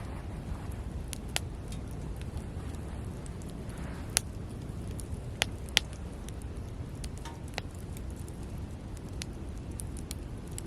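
Wood campfire crackling, with a scatter of sharp pops over a low steady rumble; the loudest pops come about four and six seconds in.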